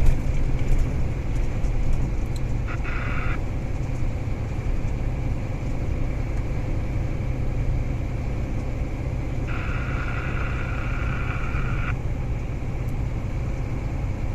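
A truck's engine and road noise heard from inside the cab while driving: a steady low drone. Twice a higher, hissing sound comes in briefly, once for under a second about three seconds in and once for about two seconds near the ten-second mark.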